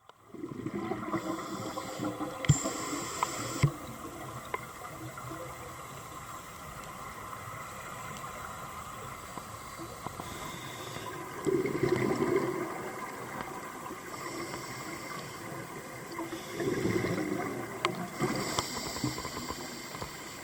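Underwater gurgling and hiss of a scuba diver's exhaled bubbles, with two louder bubbling surges, about halfway through and again a few seconds later, over steady water noise.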